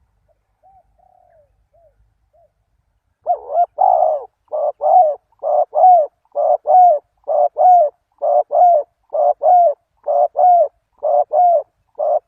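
Spotted dove cooing: a few faint, soft coos, then from about three seconds in a loud run of paired coo notes, repeated about once a second.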